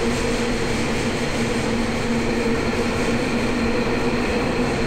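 Inside a subway train car: a steady rumble and rushing noise with an even, unchanging hum of a couple of steady tones.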